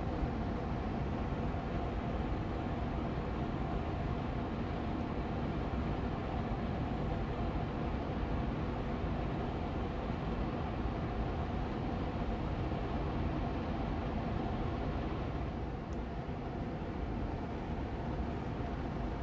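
Austin Air Allergy Machine air purifier fan running steadily on medium speed: an even rushing hum of moving air with a faint steady tone in it, dipping slightly in level once near the end.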